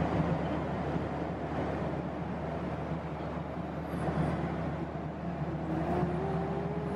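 Airliner cabin noise in cruise flight: a steady rush of air and engine noise with a constant low hum.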